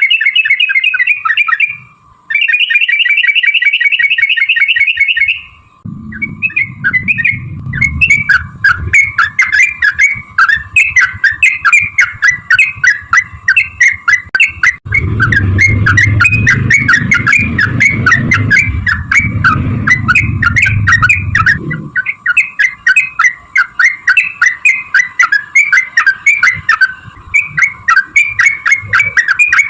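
Yellow-vented bulbul song: two long, fast, even trills (the 'ropel panjang' prized by bird-keepers), then a quick, busy run of chattering notes that carries on to the end. A low rumble lies under the song twice, and a faint steady tone runs beneath it throughout.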